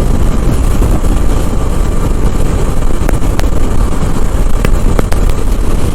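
Motorcycle ridden at high speed: a loud, steady rush of wind on the rider's microphone over the engine, with a few short ticks in the second half.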